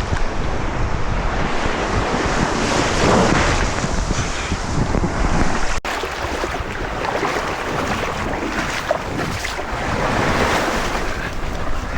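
Ocean waves breaking and washing on a beach, swelling and easing, with wind buffeting the microphone.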